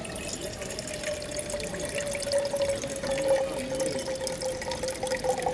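Water running, splashing steadily, with a clear tone that drifts slightly lower as it goes.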